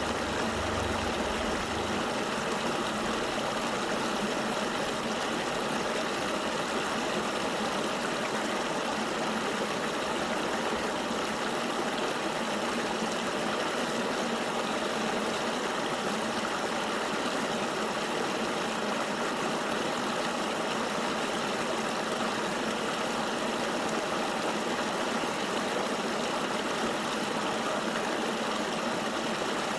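Steady rush of a flowing forest river, an even, unbroken water noise.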